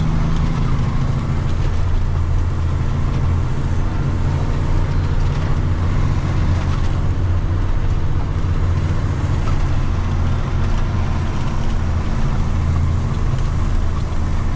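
Water truck's diesel engine running steadily as the truck is driven, a continuous low drone with road noise.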